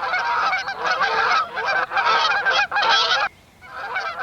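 A flock of swans honking, many calls overlapping, broken off once for about half a second around three and a half seconds in, then starting again.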